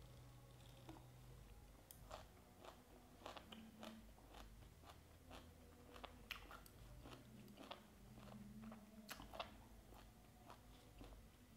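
Quiet chewing of a mouthful of crunchy shredded banana flower and raw beef salad: irregular soft crunches and wet mouth clicks, several a second at times.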